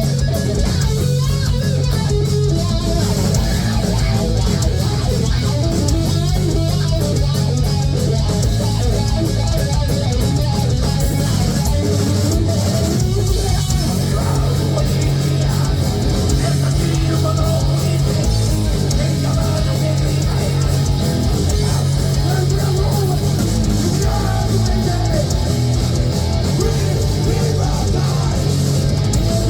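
Heavy metal band playing live: electric guitars, bass guitar and drums.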